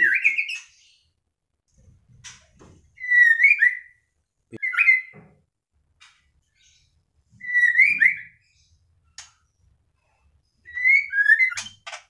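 White-rumped shama calling: short, twisting whistled notes of much the same pitch, repeated about every two to three seconds, with a few faint clicks in between.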